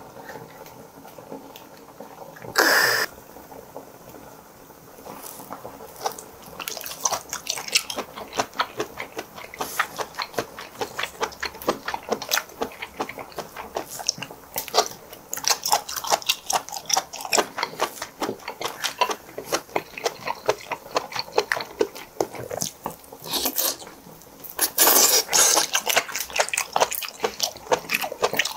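Close-miked wet chewing and smacking of raw geoduck clam siphon, a rapid run of small sticky clicks. A sharp loud noise comes about two and a half seconds in, and a louder stretch of wet mouth sounds near the end.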